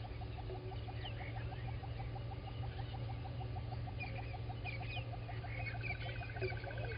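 Early-morning bush chorus at a waterhole: a steady run of quick, evenly spaced clicking calls, several a second, with scattered bird chirps above and a fast trill near the end, over a constant low hum.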